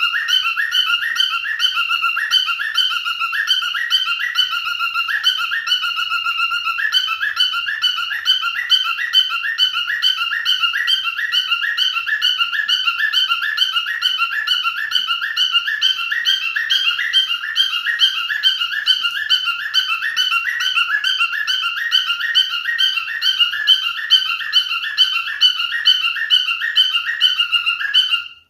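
High, fast-warbling whistle, a rapid trill repeated without a break and cutting off suddenly near the end.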